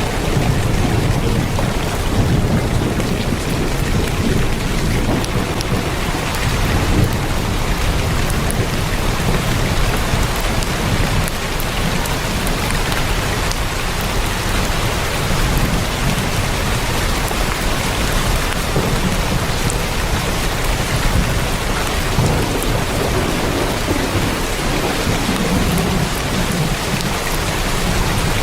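Heavy rain drumming steadily on a tin roof, a dense even hiss with a low rumble underneath that swells and fades slowly.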